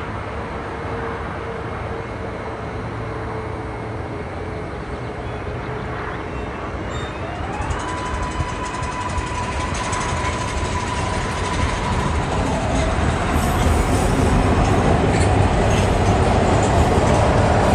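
MARTA rapid-transit train on the elevated track, its electric motors whining up in pitch about seven seconds in and holding a steady tone, then the train growing louder over the last few seconds as it moves along the viaduct.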